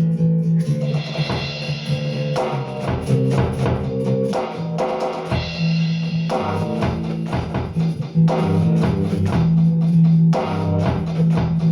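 Instrumental band jam: a Squier Precision Bass electric bass plays held low notes over a steady drum beat, with guitar.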